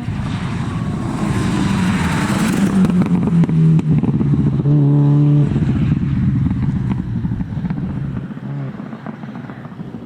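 Four-wheel-drive rally car passing at speed: engine and road noise build to a peak in the first few seconds, hold a strong engine note about five seconds in, then fade as the car goes away.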